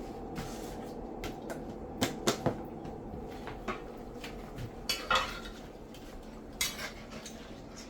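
Cooking utensil clinking and knocking against a pot a few times, in small clusters about two seconds in, around five seconds and near seven seconds, over a steady low hum.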